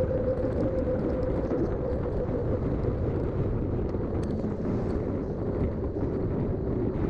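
Wind rushing over the GoPro's microphone and tyres rolling as a mountain bike is ridden, a steady noise with a faint hum near the start that fades after a second or two.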